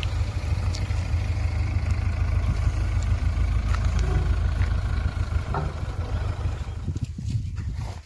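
JCB 3DX backhoe loader's diesel engine running steadily with a deep rumble and a few light knocks. The rumble falls away about seven seconds in.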